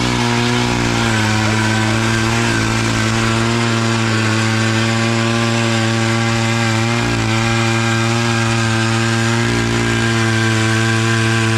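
Gas-powered ice auger running at full speed, its engine holding a steady pitch with brief slight dips as the spiral bit cuts down through lake ice.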